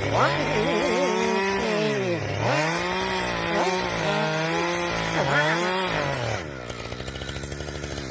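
Chainsaw engine held at high revs, its pitch dipping briefly and climbing back twice, then dropping to a steady idle near the end.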